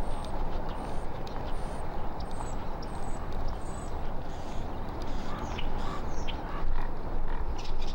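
A small bird repeating a short, high-pitched chirp about twice a second through the first half, over a steady rushing background noise. A few short clicks follow near the end.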